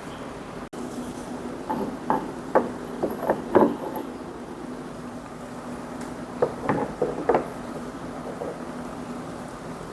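Light knocks and taps from handling materials in a small tank: a quick run of taps about two to four seconds in, and another cluster around seven seconds, over a steady low hum.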